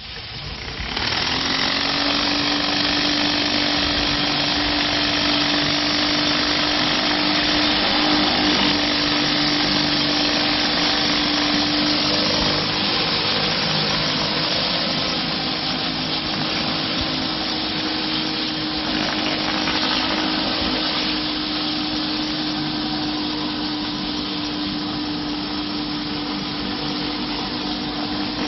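Pressure washer with a rotary concrete surface cleaner running: a steady hiss of high-pressure water spray over a steady machine hum, coming up to full power about a second in.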